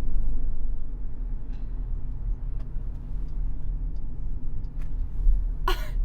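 Steady low rumble of a car cabin on the move. A brief voice sound comes near the end.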